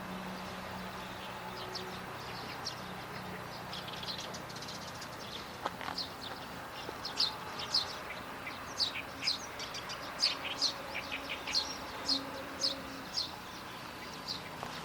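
Small birds chirping: a string of short, high chirps, sparse at first and coming thick and fast from a few seconds in, over a steady low hum.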